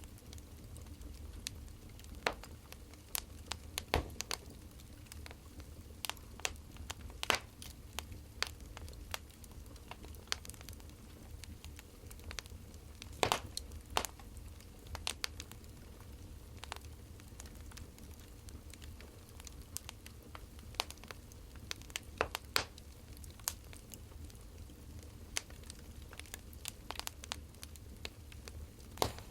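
Burning firewood crackling: irregular sharp pops and snaps, a few each second, over a steady low background.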